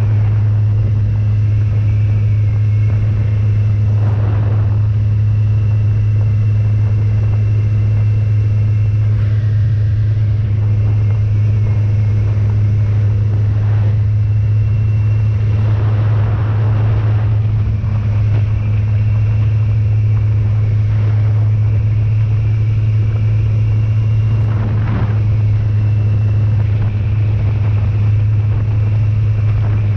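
Motorcycle engine running at a steady cruise, a loud even drone heard from on the bike, with a few brief swells of rushing noise.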